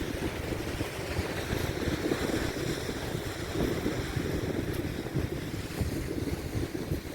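Wind buffeting the microphone in uneven gusts, over the wash of waves on the shore.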